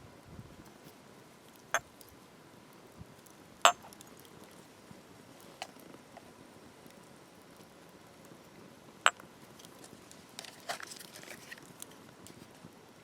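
A few sharp, isolated taps and clicks over a faint steady hiss, the loudest about three and a half seconds in and again about nine seconds in, with a quick run of lighter ticks near the end.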